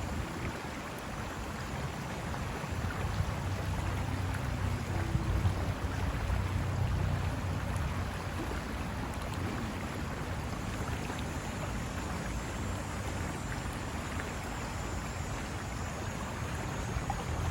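River water rushing over rocks, a steady noise with a low rumble underneath.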